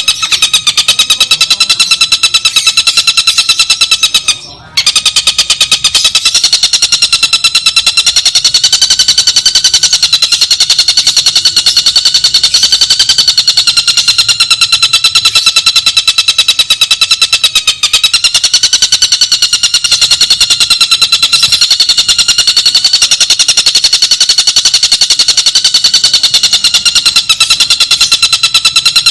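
A bird's long, unbroken, rapid trill, high and ringing, that wavers slightly in pitch and breaks off only once, briefly, about four and a half seconds in.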